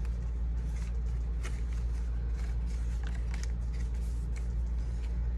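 Corner rounder punch clicking several times as corners are rounded off card stock, with light paper handling, over a steady low electrical hum.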